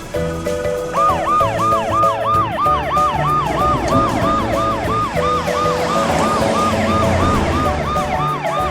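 A fast up-and-down siren sound effect, about three sweeps a second, comes in about a second in and keeps going over cartoon background music.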